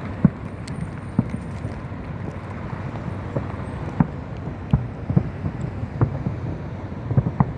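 Distant fireworks going off as scattered sharp pops and bangs at irregular intervals, over a steady rumble of wind on the microphone.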